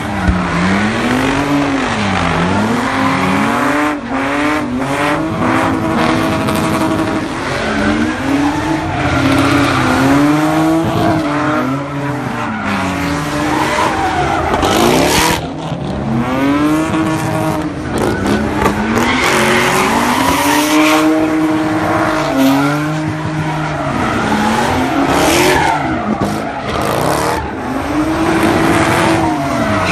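Car engine revving up and falling back over and over, about once every two seconds, over continuous tire squeal and skidding: a car spinning donuts at a street sideshow.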